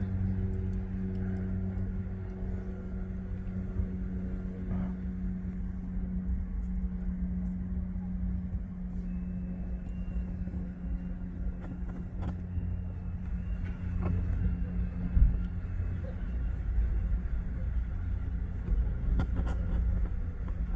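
Steady engine hum over a fluctuating low rumble, with a brief low knock about fifteen seconds in.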